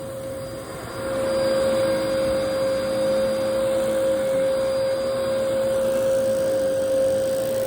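Vacuum cleaner running with a steady whine over a rush of air, getting louder about a second in.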